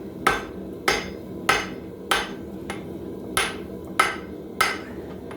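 Hand hammer striking a hot steel hammer head on an anvil to forge it. The blows come about every 0.6 s, each a sharp ringing strike, with a faint tap in a short pause midway. A steady low hum runs underneath.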